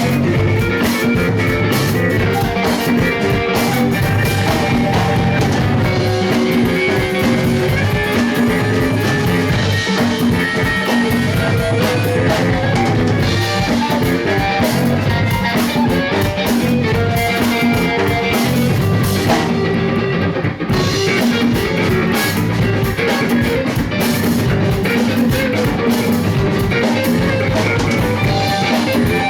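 Live rock band playing, guitar over a drum kit, with a brief break in the top end about twenty seconds in.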